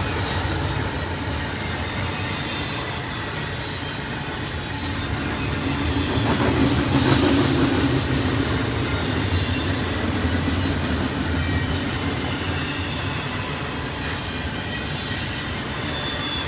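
Double-stack intermodal freight train rolling past at speed: steady rumble of steel wheels on the rails as the container well cars go by, swelling louder about six to eight seconds in.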